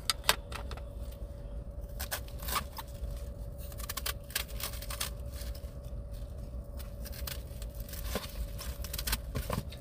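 Plastic food packaging or containers being handled: crinkling, tearing and scraping with scattered small clicks, over a faint steady hum.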